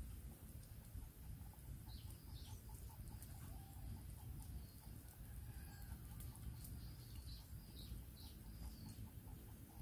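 Faint short bird chirps, a couple about two seconds in and a run of them in the second half, over a low steady rumble.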